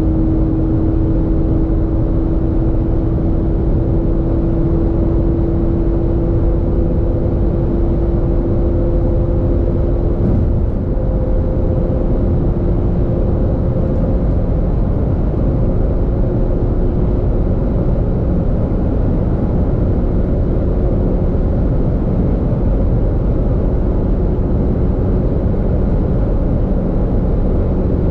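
A 2019 VW Polo GTI's 2.0 TSI turbocharged four-cylinder, with a mid-silencer delete, pulling under load in a high gear at high speed. Its drone rises only slowly in pitch over heavy wind and road noise.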